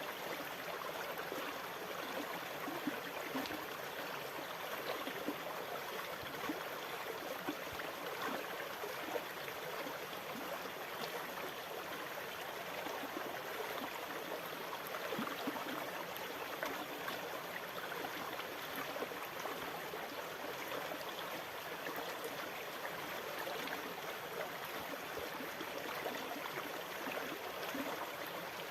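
Running water, a steady babbling and gurgling with many small splashes, even in level with no rise and fall of breaking waves.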